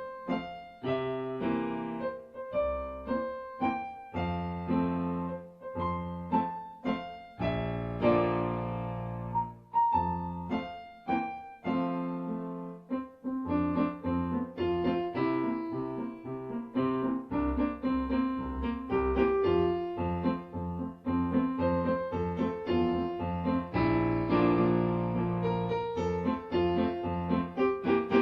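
Solo piano music: a melody of struck, decaying notes over low bass notes, playing steadily.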